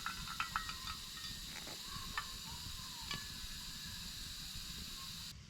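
Wood fire crackling in a fire pit, with scattered sharp pops over a steady hiss; the hiss drops away suddenly near the end.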